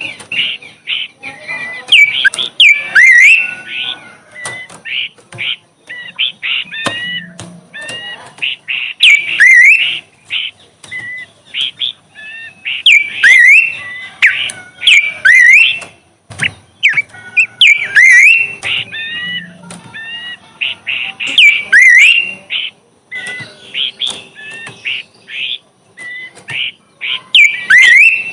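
A bush songbird singing continuously: fast runs of chirps mixed with short, upward-sweeping whistled notes, repeated in phrases every second or two.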